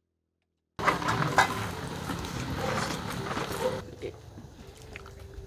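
Cooking sounds: food sizzling on a hot pan with light clinks of a metal utensil as it is turned. They start suddenly about a second in and fall quieter about four seconds in.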